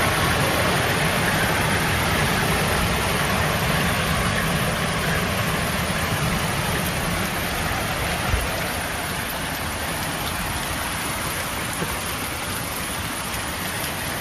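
Hailstorm pelting down steadily, a dense, unbroken noise of hail and rain striking surfaces, with one sharper knock about eight seconds in.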